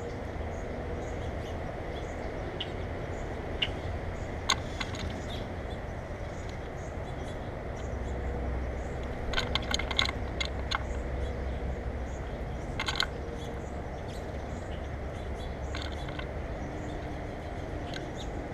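Steady low outdoor rumble with faint, short bird chirps scattered throughout, and a few clusters of sharp clicks about four, ten and thirteen seconds in.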